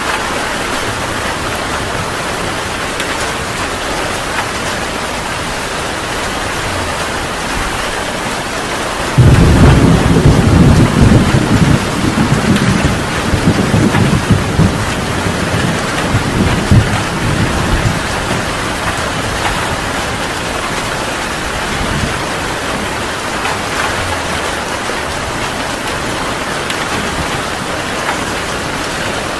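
Heavy rain falling steadily. About nine seconds in, a sudden loud thunderclap breaks in and rolls on as rumbling thunder, fading out over the next several seconds.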